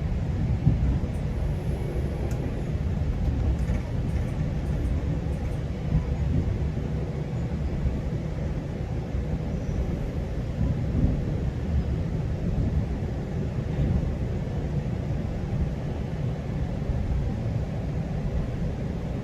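GO Transit commuter train running along the track, heard from aboard: a steady low rumble with a faint steady hum above it.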